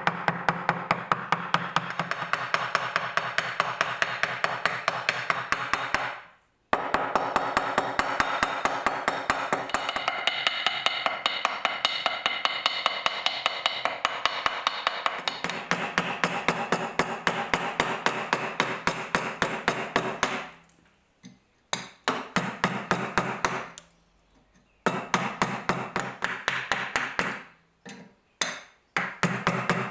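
A hammer striking metal in a steady run of blows, about four a second, each blow ringing. The run stops briefly several times, most often in the last third.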